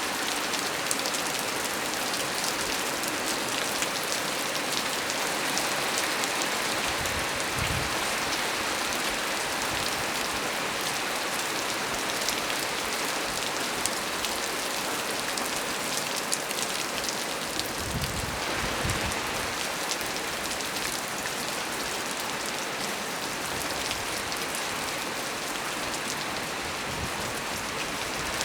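Heavy rain falling steadily as a dense, even hiss. A few brief low rumbles come about 8 seconds in, again around 18 to 19 seconds, and near the end.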